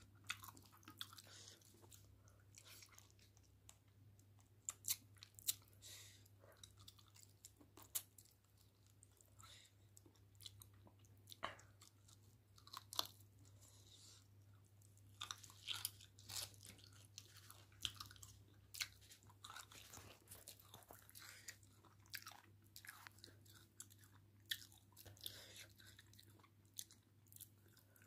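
Quiet chewing and mouth sounds of someone eating curry and rice by hand: scattered soft wet smacks and clicks over a low steady hum.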